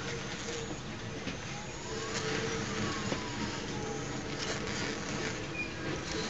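Distant electric narrow-gauge freight train approaching: a steady low rumble with a faint hum, growing a little louder about two seconds in.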